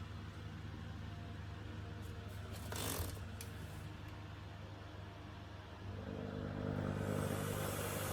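Electrolux Pure D8.2 vacuum cleaner motor starting up about six seconds in, rising from a low hum into a steady whir and hiss of moving air.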